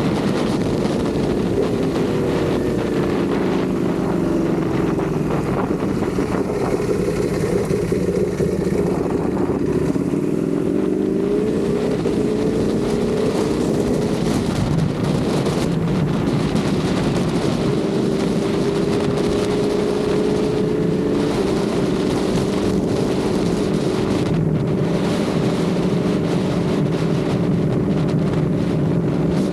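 Ducati Panigale V4 motorcycle's V4 engine running while riding, its pitch rising and falling with the throttle for the first half, then holding nearly steady at cruise.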